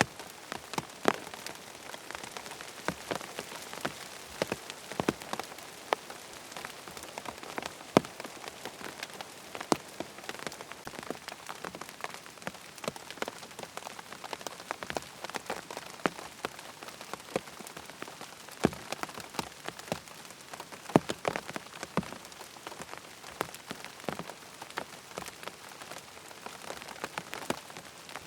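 Steady rain on a tent's fabric, with many individual drops tapping sharply and unevenly over a constant patter.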